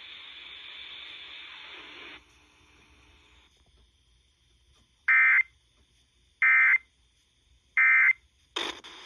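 Three short, harsh digital data bursts of an Emergency Alert System broadcast, about 1.3 seconds apart: the SAME end-of-message tones that close a weather warning over the radio. Before them is about two seconds of steady radio hiss, and near the end a sudden burst of noise.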